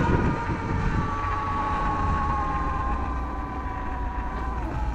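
Sur-Ron Light Bee X electric dirt bike's motor whining steadily while riding, its pitch easing down slightly toward the end, over a low rumble of wind on the microphone.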